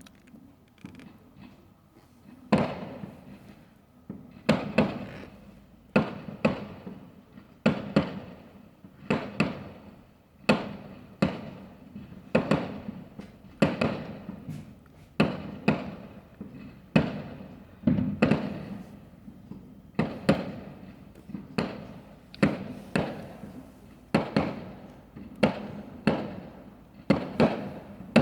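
Fireworks going off in a steady barrage of sharp bangs, roughly one to two a second, each followed by a short rumbling echo. Only faint small pops come before the bangs start about two and a half seconds in.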